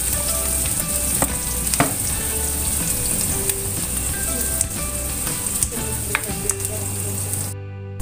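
Sliced ginger, shallots, garlic and onion sizzling steadily in hot oil in a stainless steel wok, with a few sharp clicks from the frying oil. The sound drops out briefly near the end.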